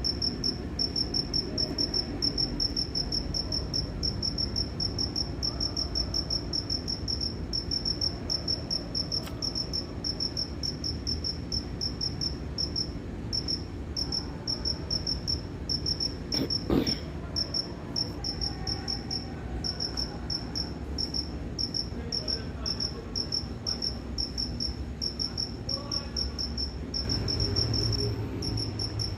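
A cricket chirping: a steady, even train of high-pitched 'cri cri' chirps, several a second, with a few short pauses. A brief sharp knock comes about two-thirds of the way through, and a low rumble swells near the end.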